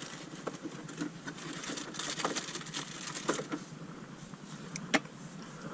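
Rummaging for a bowl and handling kitchen things: scattered small clicks and knocks, with one sharper knock near the end.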